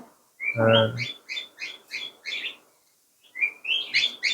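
Small aviary birds chirping in quick runs of short, high calls, about three a second, with a brief pause near the middle. A louder, fuller call comes about half a second in.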